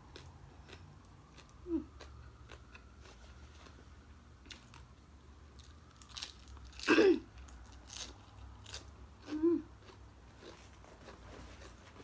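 Close-up chewing and crunching of papaya salad and raw vegetables: a string of crisp bites and mouth clicks. There are two short low sounds and a louder burst about seven seconds in.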